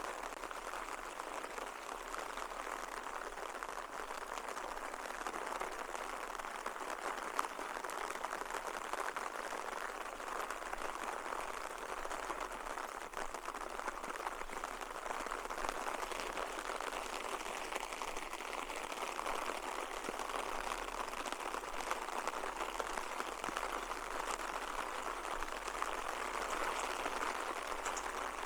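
Steady rain pattering, an even hiss of many fine drops that keeps up at a constant level.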